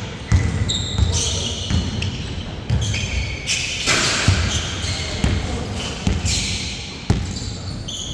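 Basketball being dribbled and bounced on a court during a game, a steady run of low thumps, with a few short high squeaks mixed in.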